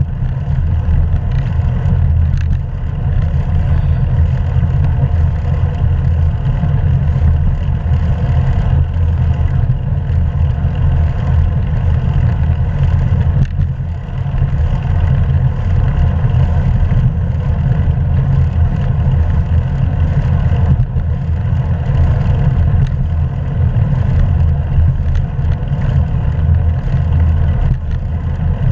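Steady low rumble of wind buffeting the microphone of a camera carried on a moving bicycle, with the ride's road noise underneath.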